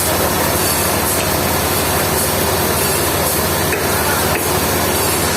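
Sawmill machinery running steadily: an even engine drone under a loud hiss.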